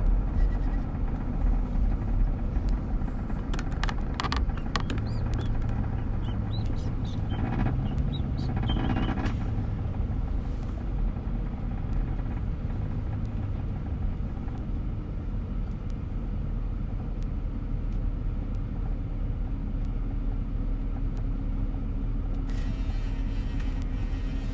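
Car driving on a city road, heard from inside the cabin: a steady low rumble of engine and tyres, with the engine note rising and falling once about five to ten seconds in. A few short clicks or knocks sound between about three and nine seconds in.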